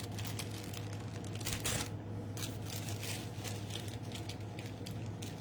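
Light, irregular taps, clicks and rustles of paper and a rubber stamp being handled on a stamping platform, over a steady low hum.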